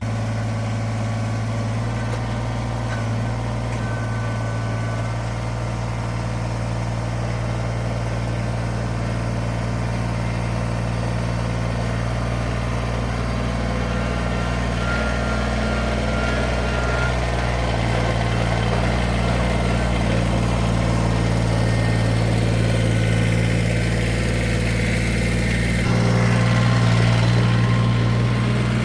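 Kubota BX23S compact tractor's three-cylinder diesel engine running steadily while it pulls a three-point grass thatcher over road gravel. Near the end the engine note shifts and gets a little louder.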